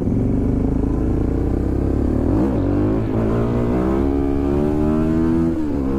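Motorcycle engine accelerating through the gears. The pitch climbs, drops at a shift about two and a half seconds in, climbs again and drops at another shift near the end.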